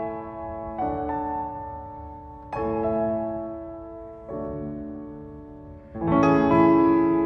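Solo piano playing slow, sustained chords. A new chord is struck about every second and a half to two seconds, each ringing and fading before the next.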